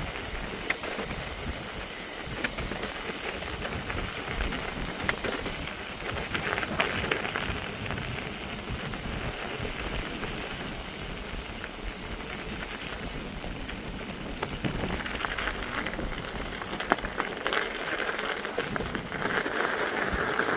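Steady hissing noise with scattered small clicks and crunches, from riding over a snowy trail, with a stretch of louder crunching in the last few seconds.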